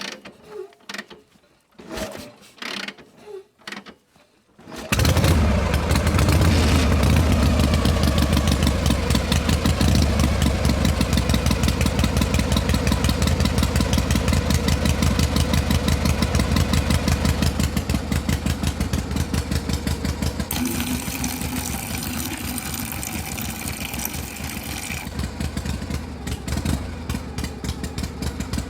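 A few light taps and knocks, then about five seconds in a small motor starts abruptly and runs steadily with a fast, even rattle. About three-quarters of the way through, a harsher hiss joins it for a few seconds.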